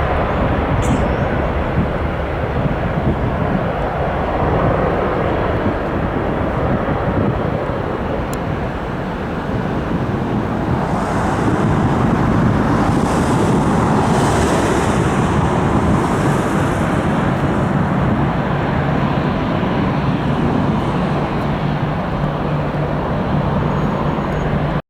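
Jet noise from an Airbus A310-304's two turbofan engines: a steady rumble with a rising and falling hiss in the middle, as the airliner passes.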